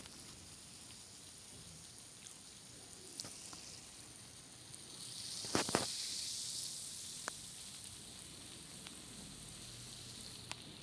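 Faint fizzing of carbon dioxide bubbles from baking soda and citric acid reacting in a test tube under a layer of vegetable oil. The fizz swells about five seconds in, with a sharp tick at its height and a few lighter ticks.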